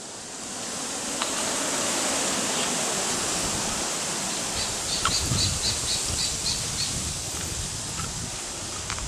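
Wind rushing through forest foliage, swelling about a second in and holding steady, with low rumbling wind on the microphone. Midway a small bird gives a quick run of about eight short high chirps.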